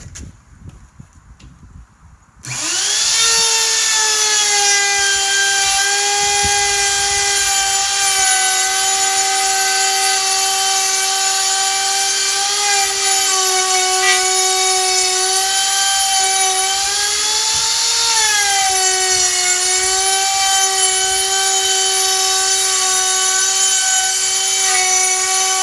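Cheap Harbor Freight electric router switched on about two and a half seconds in and running with a loud, steady high whine while routing a 2x6 board in a jig; its pitch sags and recovers briefly a few times as the bit takes load. A few knocks come before it starts.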